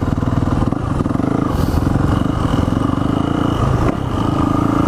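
Small dirt bike engine running steadily under throttle, with a slight dip in level about four seconds in.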